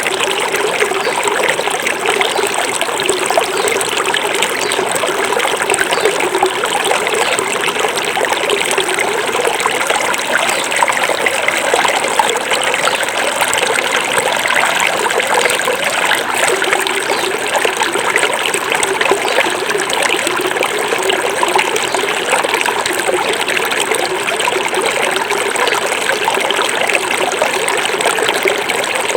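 A small forest river flowing and trickling over stones, a steady babbling rush of water.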